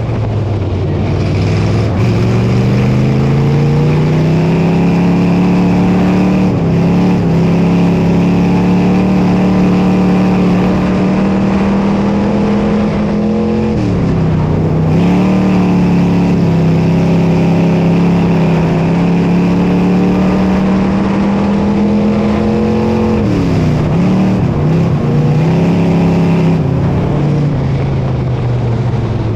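Dirt modified race car's V8 engine at speed on a dirt oval. It revs up over the first few seconds and holds high revs, dipping briefly each time the throttle is lifted, three times. Near the end it settles to lower revs.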